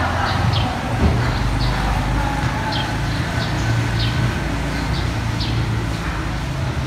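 Small birds chirping in short, high notes that fall in pitch, about one or two a second, over a steady low rumble.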